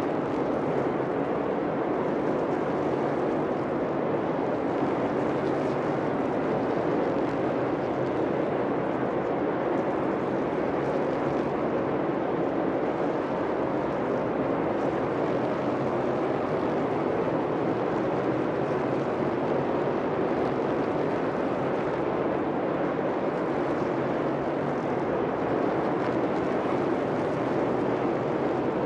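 NASCAR Cup Series stock car V8 engines running, a steady unbroken drone with no sudden change.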